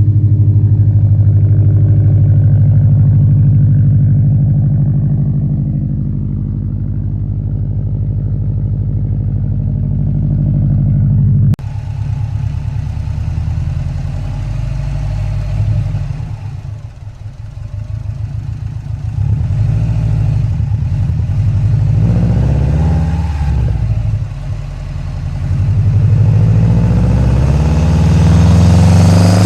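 2013 Subaru WRX's turbocharged 2.5-litre flat-four engine and exhaust while driving. It runs at a steady pitch at first, then after an abrupt cut the engine note falls and rises with the revs, climbing in pitch under acceleration near the end.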